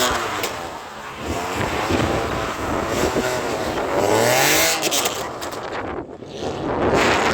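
Straight-piped BMW E92 328i inline-six revving up and down under throttle while the car drifts, the exhaust note rising and falling repeatedly over tyre and road noise.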